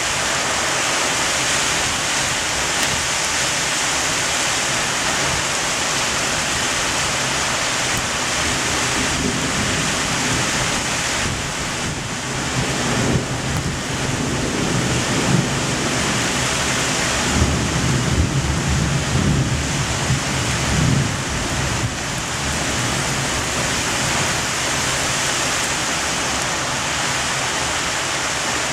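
Heavy thunderstorm rain pouring down with a steady hiss, and a long low rumble of thunder rolling through the middle, loudest shortly before it fades.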